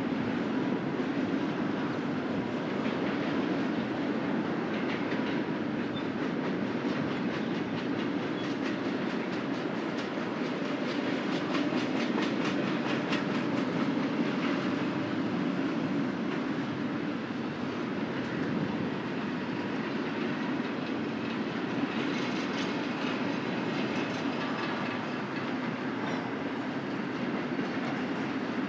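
Intermodal freight train's cars rolling past with a steady rumble, their steel wheels clicking in quick clusters over rail joints, twice.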